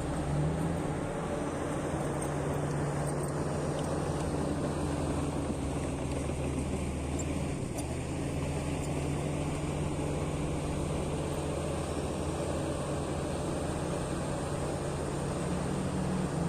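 Heavy diesel engine of mine earthmoving equipment running steadily at a constant low drone, with no marked revving.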